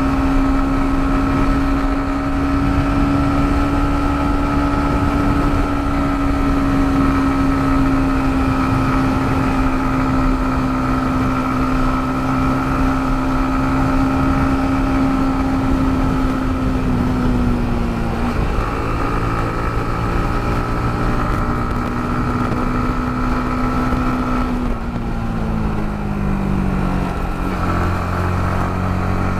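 Yamaha MT-15's single-cylinder engine running at a steady pitch, dropping in pitch about two-thirds of the way through and again near the end as the bike slows or shifts, over a constant hiss.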